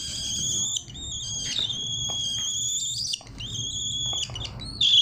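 Cockatiel calling in a run of long, shrill, steady notes, each about a second long with short breaks between them.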